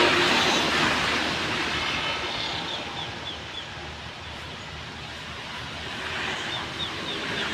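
A train passing at speed over railway switches: a rushing wheel-on-rail noise, loudest at the start, fading through the middle and swelling again near the end.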